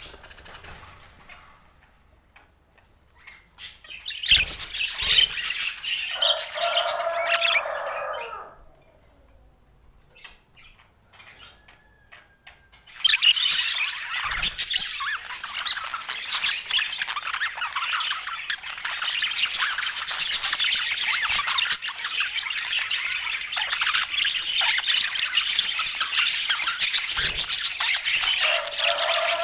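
Budgerigars chattering and squawking: a burst of calls with one harsh squawk a few seconds in, a short lull, then dense, continuous flock chatter from about halfway through.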